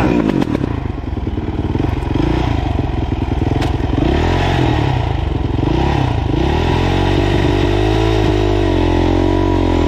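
Dirt bike engine running, its revs rising and falling unevenly as a learner works the throttle.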